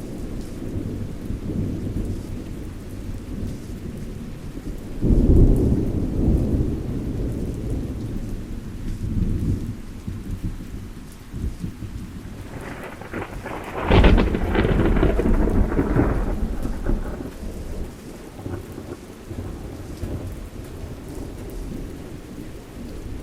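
Thunderstorm: rain falling steadily under rolling thunder, with a loud clap about five seconds in and a sharper, crackling clap about fourteen seconds in that rumbles on for a few seconds.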